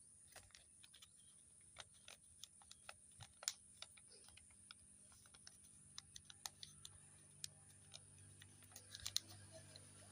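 Paper being handled and folded by hand: faint, irregular crinkles and clicks, with a sharper one about three and a half seconds in and a quick cluster near the end.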